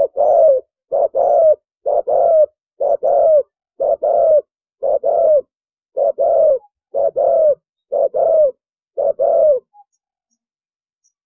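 Spotted dove cooing in the 'thổ bầu' call style: a regular run of about ten coos, roughly one a second, each a brief note followed by a longer one that drops in pitch at its end. The calling stops shortly before the end.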